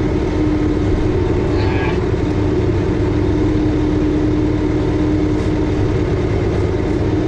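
Massey Ferguson 5400-series tractor's diesel engine idling steadily, with a constant hum over the low rumble.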